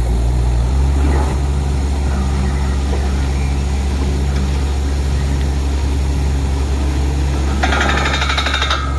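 Borewell drilling rig running steadily with a deep engine hum, with a rapid metallic rattle for about a second near the end.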